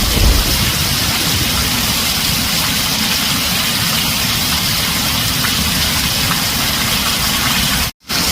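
Heavy rain drumming steadily on a tin roof, a steady hiss with a low rumble beneath, as a roll of thunder dies away at the start. The sound cuts out completely for a split second near the end.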